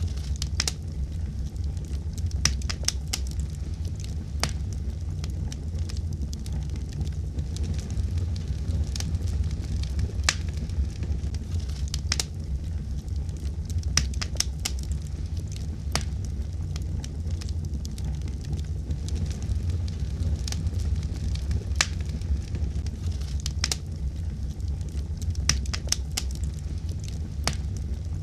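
Wood fire burning, with a steady low rumble and sharp, irregular crackles and pops, some coming in quick clusters.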